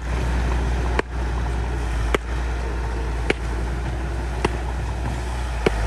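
Bulldozer's diesel engine running steadily with a deep drone, with sharp clicks about once a second.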